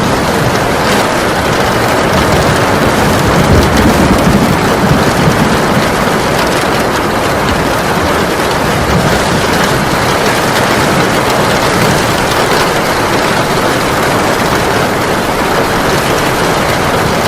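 Heavy rain falling steadily, a dense even hiss of drops on surfaces. A slight low rumble swells a few seconds in, then settles.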